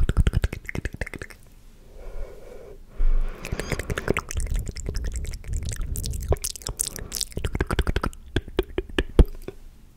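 Close-miked ASMR mouth sounds: rapid wet clicks and smacks in dense runs, pausing briefly after about a second, with a low thud about three seconds in.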